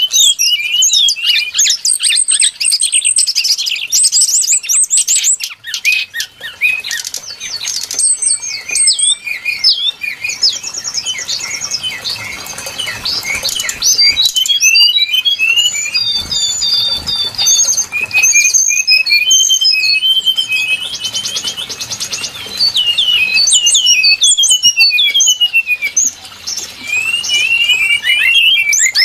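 Brown-chested jungle flycatcher singing: a fast, unbroken jumble of high chirps, rapid trills and downward-slurred whistled notes.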